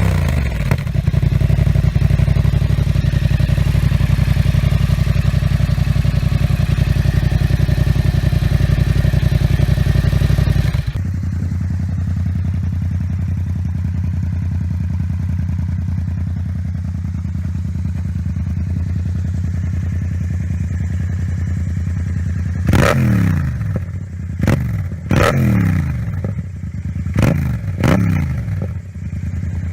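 Yamaha MT-07 parallel-twin engine idling through an aftermarket exhaust; the idle changes abruptly about a third of the way in. Near the end come several quick throttle blips, each rev falling straight back to idle.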